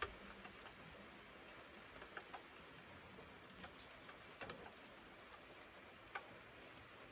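Light rain in the bush: a faint steady hiss with scattered drops ticking at irregular moments, the sharpest right at the start and others about four and a half and six seconds in.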